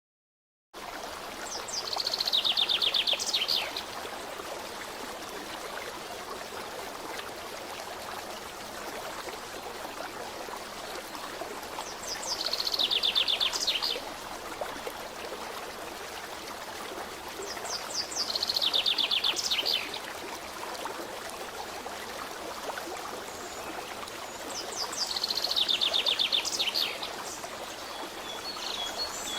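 Steady rush of a running stream with a songbird's quick descending trill, heard four times several seconds apart.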